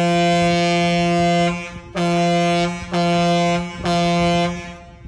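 Ferry's ship horn sounding: the end of one long blast, then three short blasts. A prolonged blast followed by three short ones is the whistle signal for a vessel leaving its berth and then backing astern.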